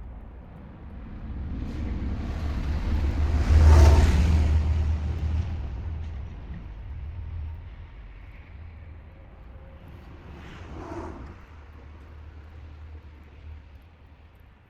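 A car driving past, growing louder to a peak about four seconds in and then fading away, with a low rumble throughout; a smaller, briefer swell follows around eleven seconds in.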